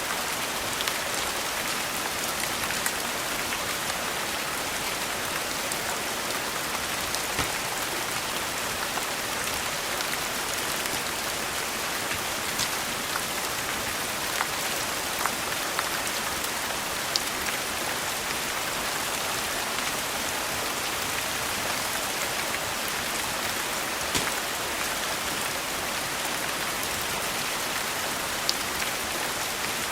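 Steady rain falling, an even hiss, with a sharp tick or pop about every two seconds.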